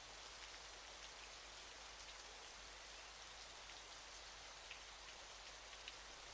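Waterfall: a faint, steady hiss of falling water with many small drips and splashes ticking through it.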